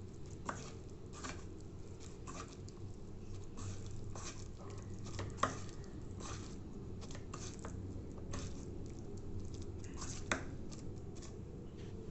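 Wet onion-and-spice stuffing being mixed in a bowl: irregular soft scraping and squelching strokes, with a few sharper clicks against the bowl.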